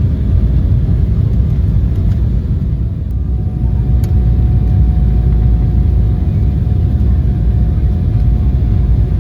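Cabin noise inside a jet airliner: a loud, steady low rumble from the engines and airframe. A faint steady tone joins it about three and a half seconds in.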